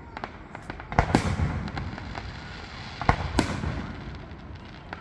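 Fireworks going off: two loud bangs, about a second in and about three seconds in, each trailing a rumbling echo, with smaller pops and crackles in between.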